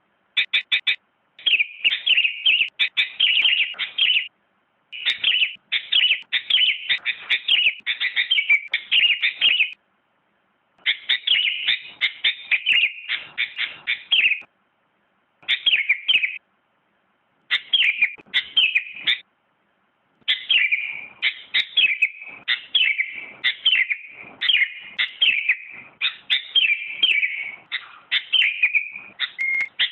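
Sooty-headed bulbul (kutilang) singing: phrases of quick, repeated high chirping notes, each a few seconds long, broken by short pauses.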